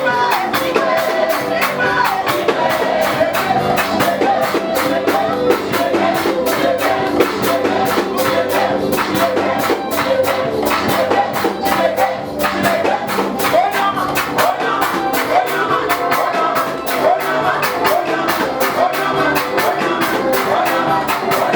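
Live gospel praise music: singing over a band, with a steady beat and tambourine-like percussion.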